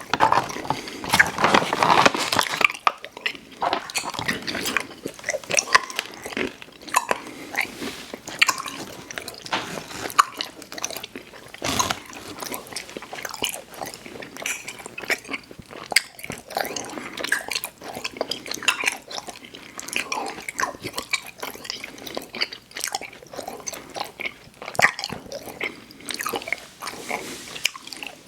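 Close-miked chewing of sour gummy worms cereal: continuous sticky, crackling chewing with crisp crunches. It is louder and busier in the first few seconds, with one sharp crunch about halfway through.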